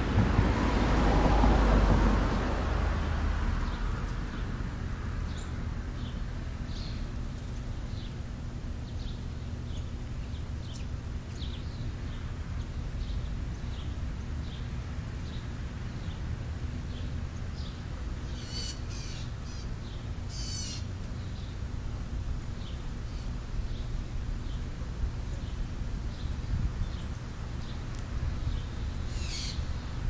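Wild birds calling: a faint short high chip note repeats about once a second, with louder, harsher calls twice around two-thirds of the way through and again at the end. A broad rushing noise swells and fades over the first few seconds.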